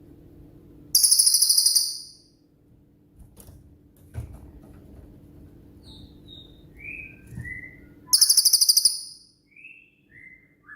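Cililin songbird singing: two loud, very rapid high-pitched trills of about a second each, the fast 'shooting' song kept for tutoring other songbirds, with short downslurred chirps in between.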